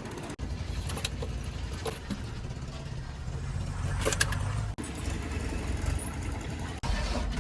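Heavy diesel engine running with a steady low rumble. The sound breaks off abruptly three times, as at cuts.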